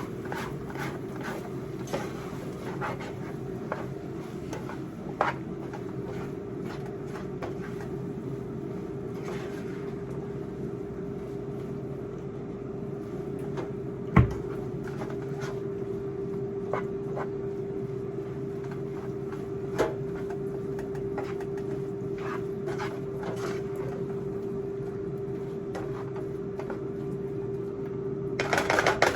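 Steady hum of a kitchen fan running, with scattered light clicks of utensils and cookware and one sharp knock about halfway through.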